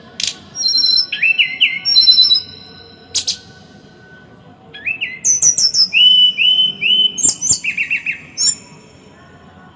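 Small songbird singing in two fast bursts of tight, harsh repeated notes: rising whistles, high chips and sharp clicks, the rapid 'tembakan' song used to tutor caged songbirds. The first burst starts at once and the second starts about halfway through, with a short pause between them.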